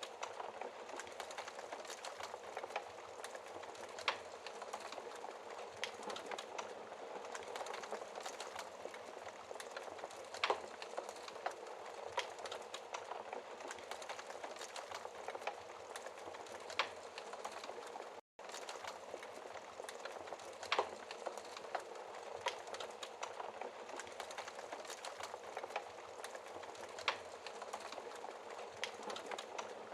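Wood fire burning in a fireplace: a steady crackling hiss with sharp pops every few seconds. The sound cuts out for an instant about two-thirds of the way through.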